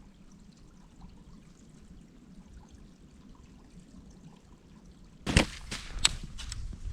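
Faint trickle of running water from a brook. About five seconds in it is cut into by loud crunching and a series of sharp clicks.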